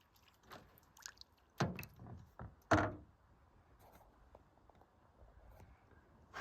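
Canoe paddle working the water: a few short splashing strokes and knocks in the first three seconds, the loudest about three seconds in, then only faint water sounds.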